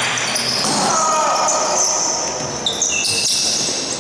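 Basketball game on an indoor court: many short, high-pitched squeaks of sneakers on the floor and the ball bouncing, with a sharp knock just past three seconds in. Voices of players and spectators run underneath.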